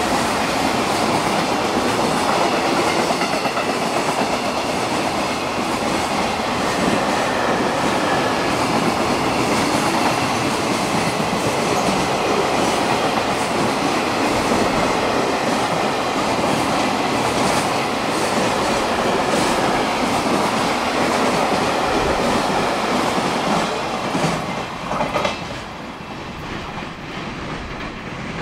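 Freight train hauled by a JR Freight EF210 electric locomotive passing through the station, its wheels clacking over the rail joints in a loud, steady rush. The noise drops off about 25 seconds in, with a few last joint clicks.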